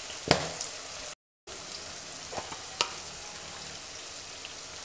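Onion-tomato masala frying in oil in a stainless steel pot, a steady sizzle with a few sharp clicks. The sound cuts out completely for a moment about a second in.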